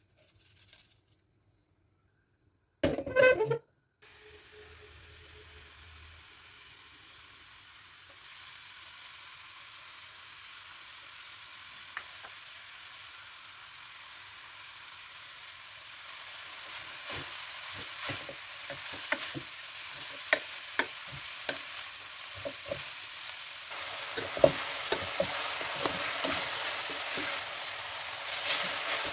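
Grated radish sizzling in a steel pan on high flame as its water cooks off: a steady hiss that slowly grows louder, with the scrape and tap of a wooden spatula stirring it from about halfway on. A brief loud clatter comes about three seconds in.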